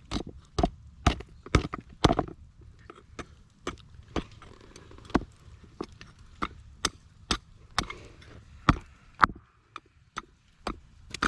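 A rock used as a hammer striking hot steel against a rock anvil, about two blows a second, pausing briefly near the end: bending a scrap-file flint striker's handle around.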